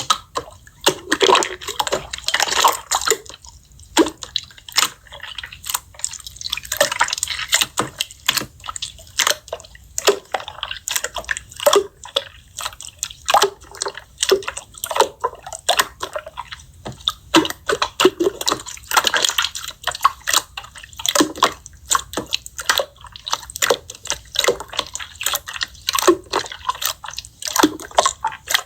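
Slime being squeezed and kneaded by hand, making sticky clicks and pops in quick, irregular runs.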